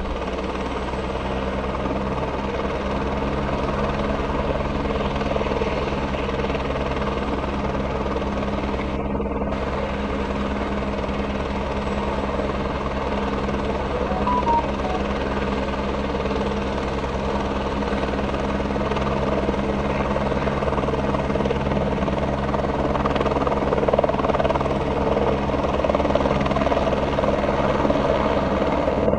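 Helicopter running steadily, its rotor giving a fast, even low beat over the engine's steady tones, growing a little louder near the end.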